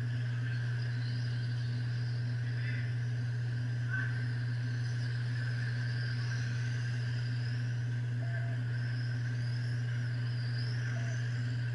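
RC trucks racing: the motors whine in high-pitched glides that rise and fall as the trucks accelerate and brake, over a steady low hum. A few short beeps sound, once about eight seconds in and again near the end.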